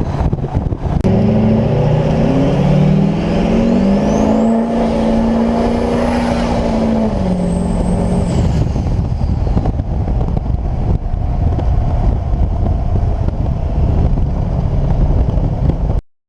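Twin-turbo LLY Duramax 6.6 L V8 diesel pickup making a hard pull. The engine note climbs for a few seconds with a high turbo whistle rising over it, holds, then the driver lets off about eight seconds in. The truck cruises on steadily before the sound cuts off suddenly near the end.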